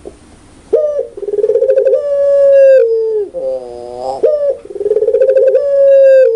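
Puter pelung (Barbary dove) cooing loudly: after a short pause about a second in, a rapid rattling 'laughing' trill runs into a long held coo that falls at the end, and the phrase comes twice.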